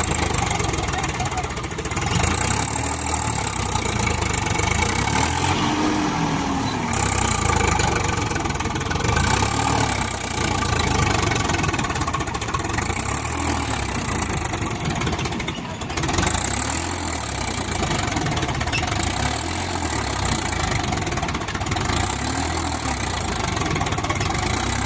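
Tractor diesel engine running, its pitch rising and falling every couple of seconds.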